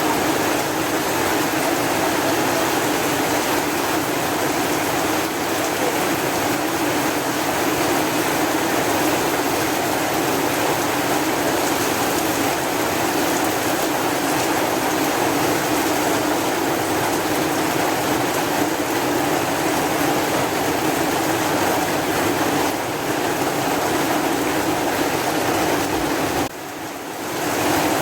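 Steady heavy rain falling, an even hiss of water with no distinct drops or thunder, dipping briefly in level near the end.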